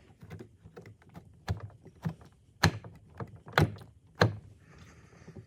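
Plastic parts of a Samsung refrigerator's ice maker assembly clicking and knocking as a tab is pressed in and the part is pulled forward out of its housing: a run of sharp knocks, the loudest three about a second apart, then a brief scraping rustle near the end.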